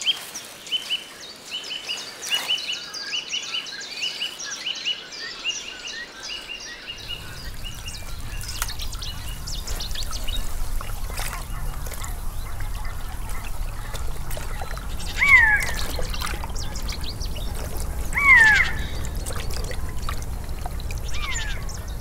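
Reedbed ambience with birds. For the first several seconds a bird sings in quick, repeated high chirps. Then, over a low steady rumble, a bird gives two loud, falling calls about three seconds apart, and a fainter third near the end.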